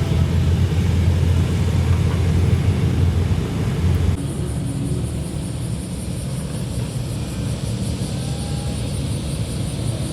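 Modified car's exhaust rumbling deep and low as it rolls in. About four seconds in the sound cuts abruptly to a quieter engine rumble with a faint high pulsing hiss over it.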